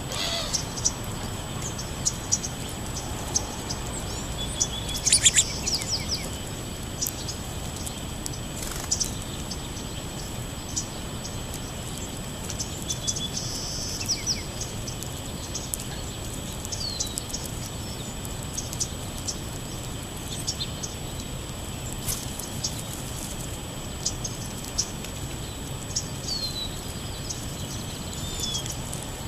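Songbirds chirping and calling, many short high chirps and trills scattered throughout, a few louder ones about five seconds in, with a thin steady high insect-like drone and outdoor background noise underneath.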